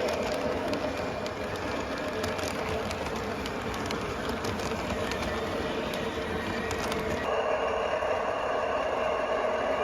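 O gauge model train running along the track: a steady motor and wheel rumble with irregular clicks as the wheels cross rail joints, changing abruptly a little after seven seconds.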